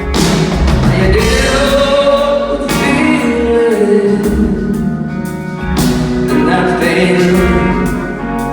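Rock band playing live: drums and bass come in hard at the start over the guitar, with full-voiced, held singing across the top.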